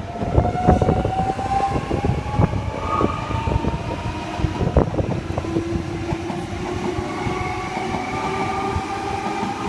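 Sydney Trains Millennium (M set) electric train pulling out of the station. Its traction motors whine in several tones that rise steadily in pitch as it accelerates, and the wheels click over rail joints.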